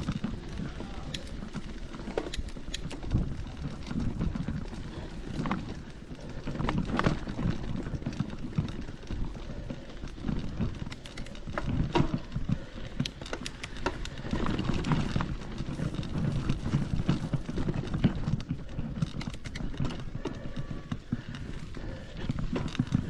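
Footsteps of a hiker walking down a forest trail: an irregular run of steps and scuffs.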